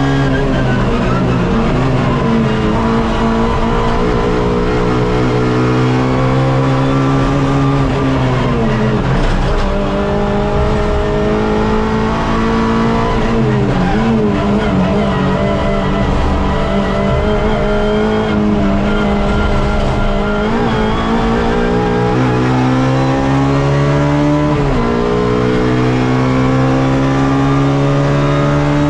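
Onboard sound of a Suzuki Swift race car's engine under hard driving. The revs climb, then drop sharply about four times as it is driven through the gears and corners.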